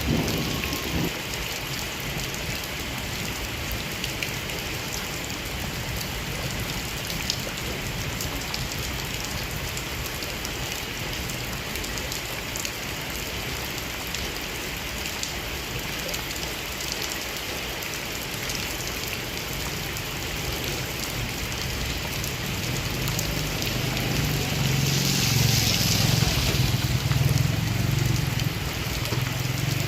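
Steady heavy rain falling, with scattered ticks of drops striking near the microphone. Near the end a low rumble swells and then eases.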